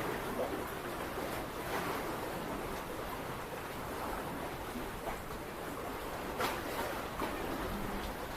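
Steady rush of sea waves washing on the shore, with wind noise, and a few faint short ticks scattered through it.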